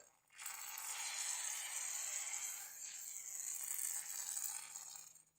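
Aerosol chain-lube spray can (Biltema racing spray) hissing steadily onto a motorcycle chain for about five seconds, then cutting off.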